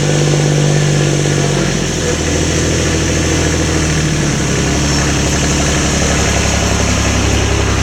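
An engine running steadily. Its pitch drops about a second and a half in, as if it came off throttle, then it settles into a steady idle.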